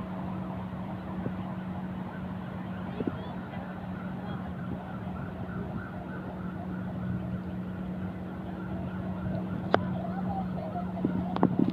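A siren wavering up and down, repeating about every half second, over a steady low engine hum, with a few sharp knocks near the end.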